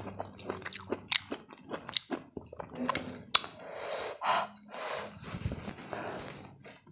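Close-miked chewing of a mouthful of kiwi fruit: wet mouth smacks with sharp clicks every second or so.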